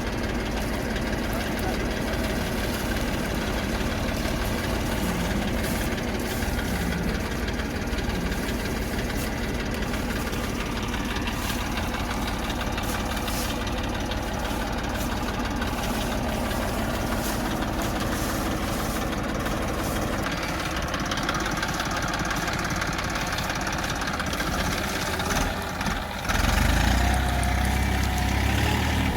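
Tafe 45 DI tractor's three-cylinder diesel engine running steadily with a fast low beat, then growing louder and deeper near the end.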